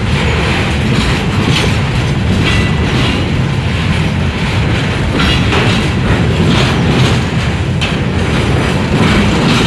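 Loaded freight flatcars rolling past close by: a steady, loud rumble of wheels on rail with irregular clacks as the wheels pass over rail joints.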